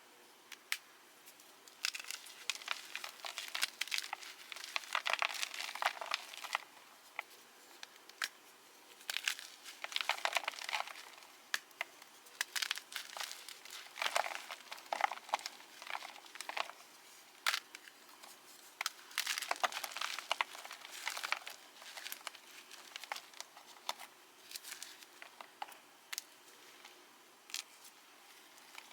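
A fresh block of Cap gym chalk tinted purple being crushed by hand, crunching and crumbling in repeated bursts of dense crackling with short pauses between squeezes. The chalk crushes easily.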